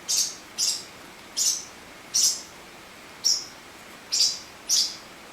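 Young pet birds, about five weeks old, chirping: seven short, high-pitched peeps at an uneven pace.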